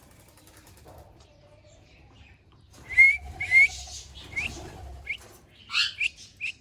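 A pet parrot giving a run of short, sharp, rising whistled chirps, starting about three seconds in and repeating irregularly.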